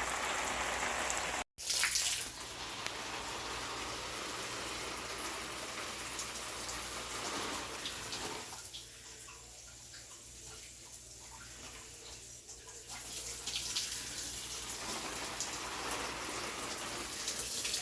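Steady rushing hiss of water, cut off briefly about a second and a half in and quieter for a few seconds in the middle.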